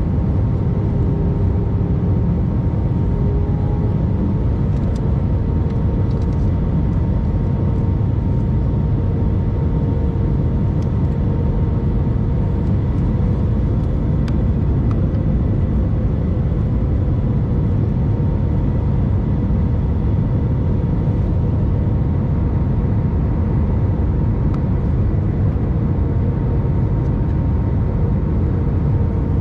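Airbus A319 jet airliner in flight, heard as a steady deep rumble of engines and airflow with a faint, even hum on top that does not change in pitch.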